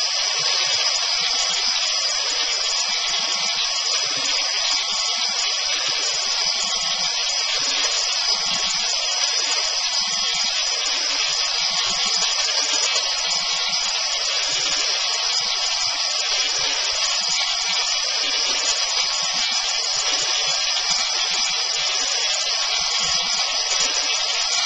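Belt sander running steadily, sanding thin wooden ukulele side panels down in thickness.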